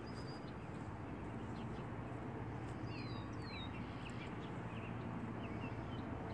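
Open-air ambience: a steady low background noise with a few short bird chirps, two quick downward chirps about three seconds in and scattered brief peeps.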